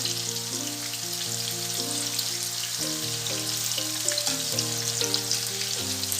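Marinated boneless chicken pieces sizzling and crackling in hot oil on a tawa as they finish frying, with a steady dense crackle. A melodic background music track plays underneath.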